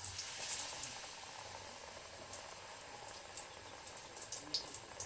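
Batter-coated guava slices (guava bajji) deep-frying in hot oil: a steady sizzling hiss with scattered crackles and pops, loudest as it begins and easing slightly after.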